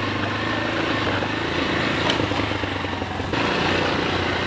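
Motorcycle engine running steadily while riding. The sound changes abruptly about three seconds in.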